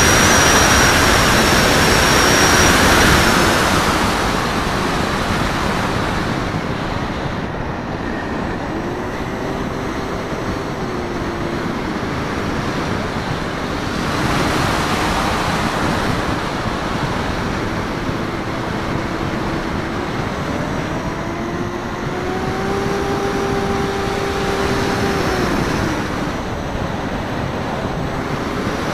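Wind rushing over a wingtip-mounted camera on a flying Raptor FPV radio-controlled plane, loudest in the first few seconds, with a faint whine from the plane's electric motor and propeller that rises and falls in pitch with the throttle.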